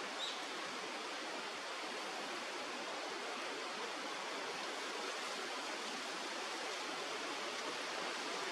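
Steady rushing of flowing river water, with a brief faint high chirp about a quarter second in.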